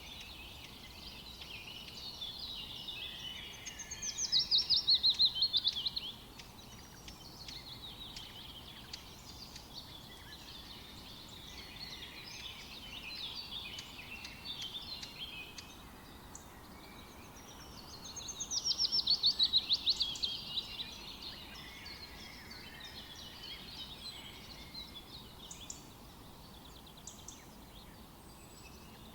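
Songbirds chirping and singing together in a steady chorus. Twice, about 4 seconds in and again about 18 seconds in, one bird gives a louder, fast trill of rapid notes that falls in pitch.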